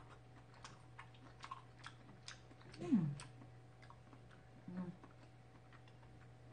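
A person chewing a mouthful of food close to the microphone, with many soft clicks. About three seconds in she gives a short, falling hum, and another brief voiced sound follows near five seconds.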